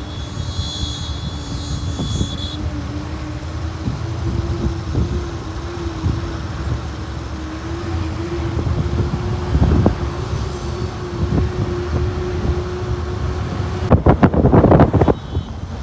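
Road vehicle running on the road, heard from inside: a low rumble with a steady engine hum and scattered knocks from bumps. A high tone sounds for the first couple of seconds, and a loud burst lasting about a second comes near the end.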